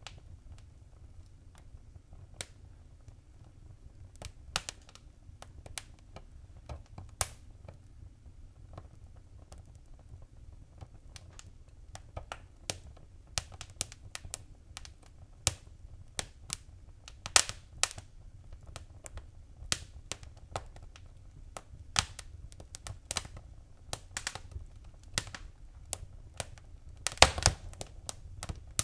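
Wood fire in a fireplace crackling: irregular sharp pops and snaps over a low steady rumble, with a quick cluster of louder pops near the end.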